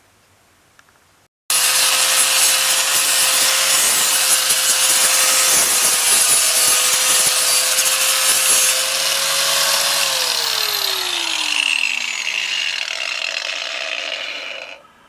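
Electric power tool running under load, cutting or grinding, starting suddenly; about ten seconds in it is switched off and its motor winds down with a falling whine while the grinding noise fades out.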